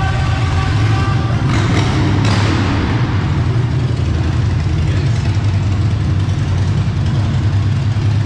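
Car engine running steadily with a deep, even drone, and a brief rush of noise about two seconds in.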